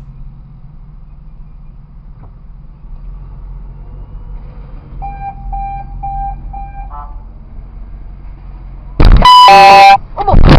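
A steady low vehicle hum, with four short electronic warning beeps on one pitch about halfway through. Near the end comes about a second of a very loud, steady, blaring tone like a car horn.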